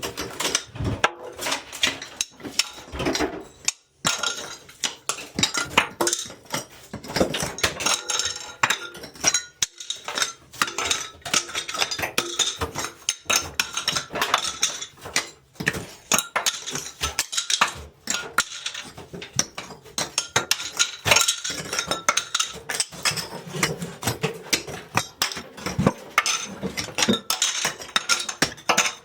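Bathroom demolition: dense, irregular clattering and clinking as hard, brittle material is struck and broken and the pieces fall.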